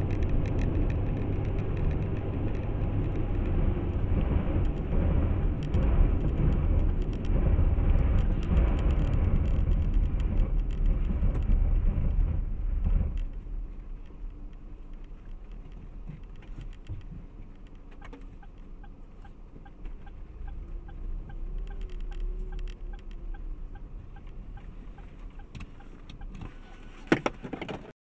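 Car engine and road noise, heavy and low for about thirteen seconds, then dropping sharply to a quieter level with scattered clicks. A single sharp knock comes near the end.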